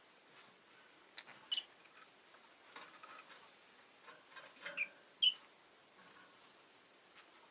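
Rosy-faced lovebird giving a few short, sharp chirps with some quieter chatter between them; the loudest chirps come about a second and a half in and again about five seconds in.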